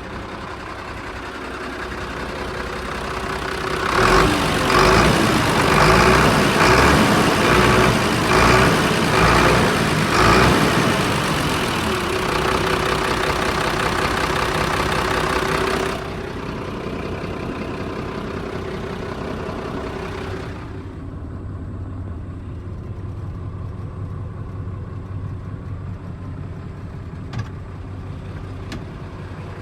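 Heavy diesel engine of a HOWO dump truck, revved in a series of short blips, then held at higher revs, then dropping back to a steady idle. Two short clicks near the end.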